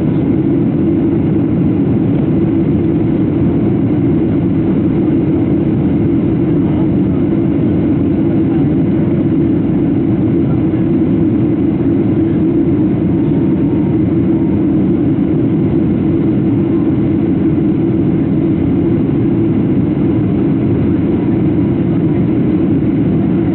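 Steady cabin noise inside a Boeing 737-700 airliner: an even, loud rumble of its engines and the airflow around the fuselage, unchanging throughout.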